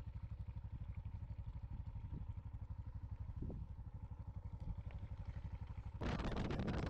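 Yamaha XT660Z Ténéré's single-cylinder engine running at low revs with a steady, even thump. Music comes in near the end.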